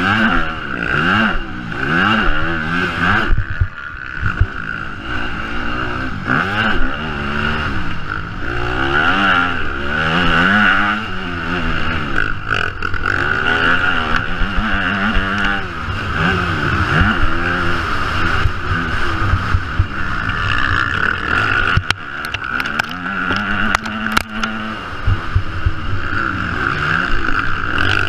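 Yamaha motocross bike's engine, recorded close up on the bike while riding the track, revving up and dropping back again and again as the throttle is worked.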